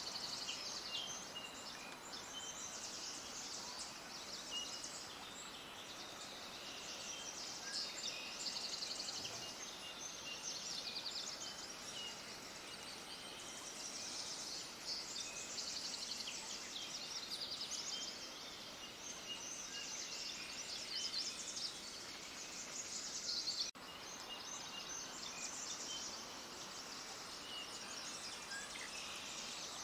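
A dense chorus of many small birds chirping and twittering over one another in rapid, high-pitched, overlapping calls, over a faint steady background hiss. It breaks off for an instant about three-quarters of the way through.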